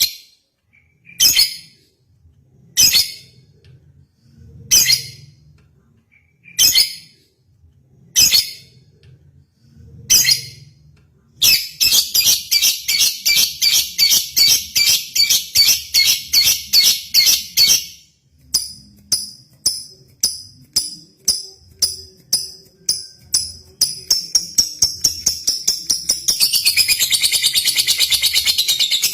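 Lovebird (Agapornis) singing: about six sharp, high calls spaced a second or two apart, then a fast run of short chirps, speeding up into a continuous chattering trill near the end.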